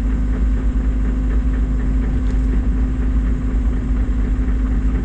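Engine idling steadily: a constant low rumble with a steady hum and no change in speed.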